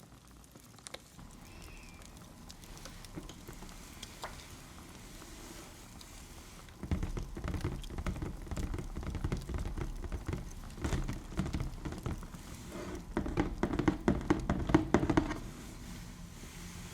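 Faint scattered crackles at first, then about seven seconds in a dense run of rapid soft taps and pats by hands close to the microphone, which stops near the end.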